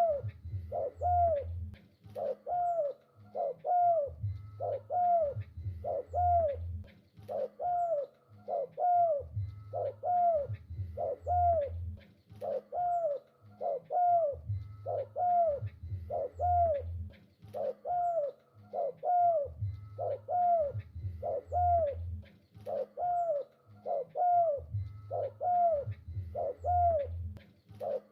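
Spotted dove cooing over and over: a steady run of short, arched coos in repeated phrases of three or four, each phrase carrying a deep low undertone.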